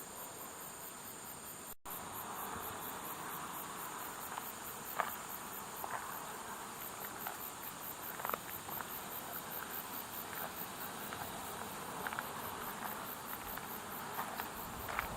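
Insects chirring in a rapid, high-pitched pulsing trill. A sudden break about two seconds in is followed by a steady hiss underneath with scattered light clicks.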